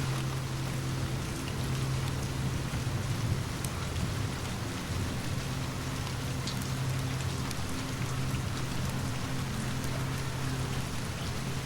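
Steady rain falling, with a steady low rumble underneath and a few faint crackles from a fireplace.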